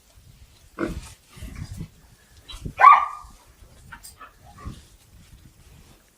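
A pig gives one loud, short squeal about three seconds in, among scattered knocks and rustling.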